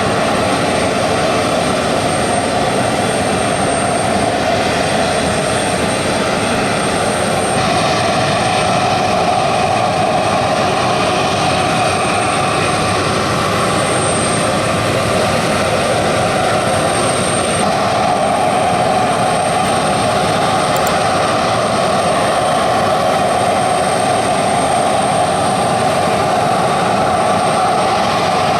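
Regional jet's turbofan engines running steadily and loudly, a dense rush with a thin high whine over it.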